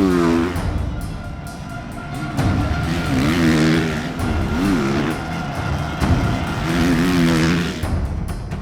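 Motocross bike engines racing, revving up and down with the pitch rising and falling several times, over background music.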